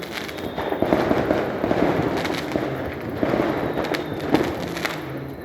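New Year's Eve fireworks going off in a dense, continuous crackle, with a few louder sharp bangs standing out now and then.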